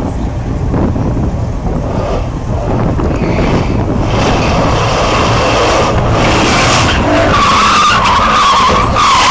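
Car engine running hard, building up over the first few seconds, with tyres squealing from about seven seconds in.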